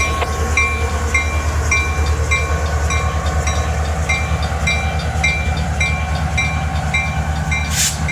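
Railroad grade-crossing bell ringing about twice a second over the steady low rumble of a CSX train rolling slowly through the crossing, with a short hiss near the end.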